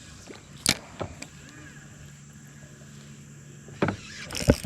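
Boat's electric trolling motor humming steadily for about two seconds, with a few sharp clicks and knocks around it.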